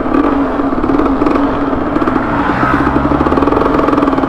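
A motorcycle engine running steadily while being ridden, its note dipping and recovering slightly.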